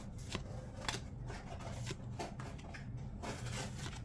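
Trading cards being handled and sorted: scattered soft clicks and slides of card stock, a few each second, over a low steady hum.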